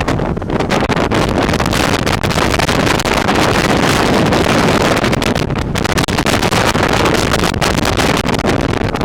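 Wind buffeting the microphone aboard a speedboat under way, with the boat's engine and the rush of water beneath it.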